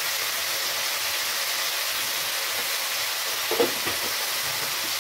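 Curry masala with turmeric and chilli powder frying in hot oil in a pan, a steady sizzle, with a couple of short knocks about three and a half seconds in.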